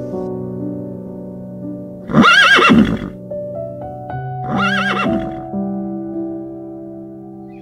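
A horse whinnies twice, about two seconds apart, each a loud, quavering neigh under a second long. Soft piano music plays underneath.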